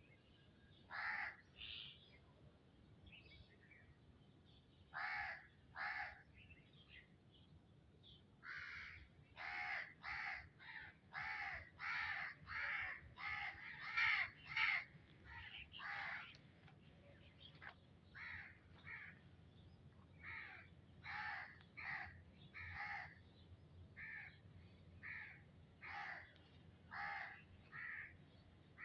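A bird calling in a long series of short, harsh calls. A few come early, then a fast run of about two a second, slowing to about one a second near the end.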